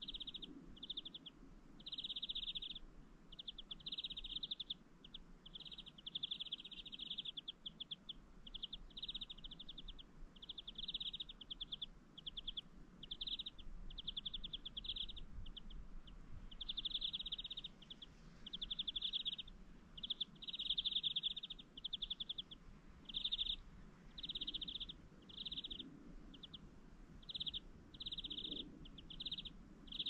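High, buzzy chirping trills from a small bird, repeating in short bursts over and over without a break.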